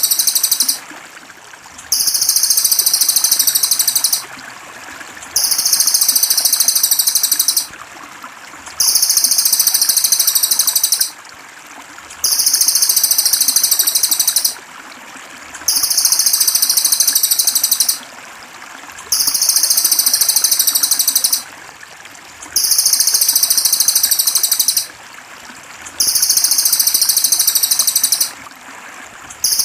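A looped bird-mastering recording of a very high, rapid buzzing trill, each phrase about two seconds long, repeating evenly about every three and a half seconds. Steady trickling water runs underneath.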